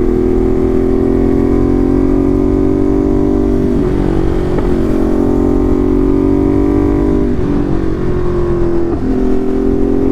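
Ducati Monster's V-twin running through an aftermarket SC Project exhaust under way, holding a steady note with short breaks in the note about four, seven and a half and nine seconds in.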